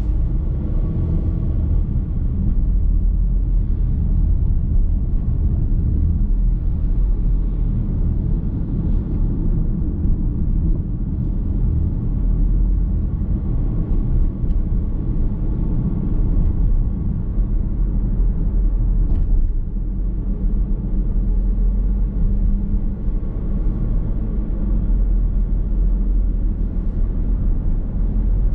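Steady road and tyre rumble of a moving car, heard from inside the cabin as an even low drone.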